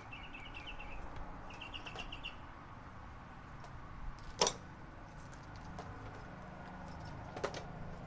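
Two short runs of quick, high chirps from a bird in the first couple of seconds, over a steady low hum. A sharp click from the metal work about four and a half seconds in is the loudest sound, with a smaller click near the end.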